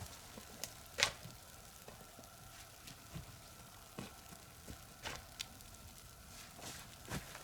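Crackling and a faint steady sizzle over a wood fire, with irregular sharp pops, the loudest about a second in and near the end.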